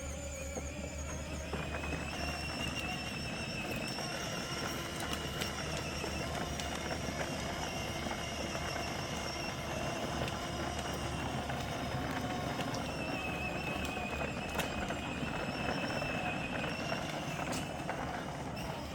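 Battery-powered ride-on toy tractor driving, with a steady whine from its electric motor and gearbox. The whine cuts off suddenly at the very end as the tractor stops.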